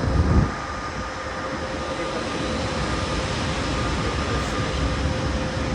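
Electric passenger train running at the platform: a steady low rumble with a faint steady whine over it, and a brief louder low burst right at the start.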